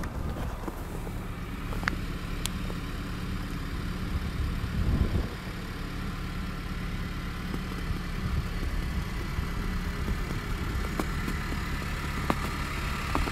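A car engine idling steadily, with a few faint ticks and a short low rumble about five seconds in.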